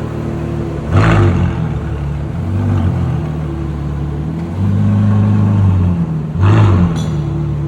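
Ferrari F12berlinetta's V12 running through a Novitec exhaust, revving up and getting louder about four and a half seconds in. There are two short, sharp bursts of noise, about a second in and again about six and a half seconds in.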